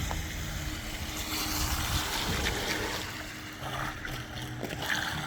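Wind on the microphone over outdoor water ambience, with a faint steady hum from a small radio-controlled electric boat.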